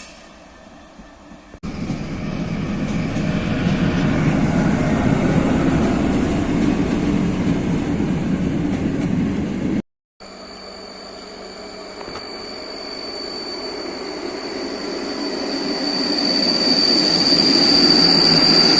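A passing train's rolling rumble, loud and steady, then after a cut another train approaching and getting steadily louder, its wheels squealing on the rails in a steady high tone that grows toward the end.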